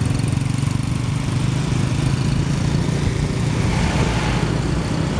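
Motorcycle engine running steadily while riding, with a low, even hum.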